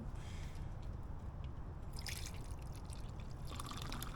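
A drink being poured into a cup to mix a whiskey highball, with a short hiss about two seconds in and a denser splashing pour near the end, over a steady low rumble.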